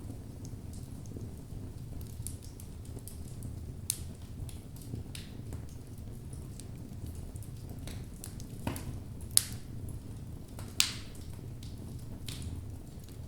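Logs burning in a fireplace: a steady low rumble of flames with scattered crackles and pops, the sharpest few coming a little past halfway.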